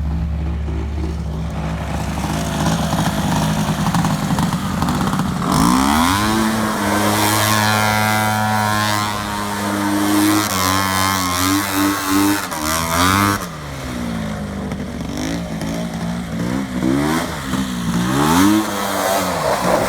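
Tractor engines running, revving up about five seconds in and held at high speed for several seconds under the strain of the pull, then revved up and down over and over.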